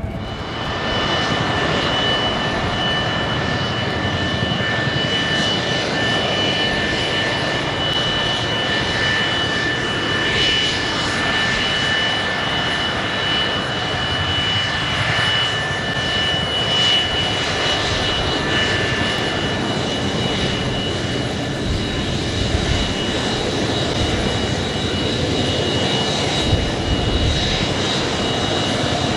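Kawasaki EC-1's twin Pratt & Whitney JT8D turbofans running at low taxi power: a steady jet roar with a constant high whine. A further, higher whine tone joins about halfway through.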